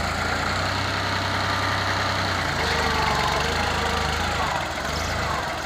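New Holland tractor's diesel engine running steadily.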